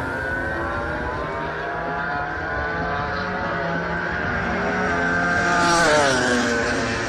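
MotoGP bike engines running at high revs on the circuit, their pitch rising and falling through the gears. One bike passes loudest about six seconds in, its engine note dropping in pitch as it goes by.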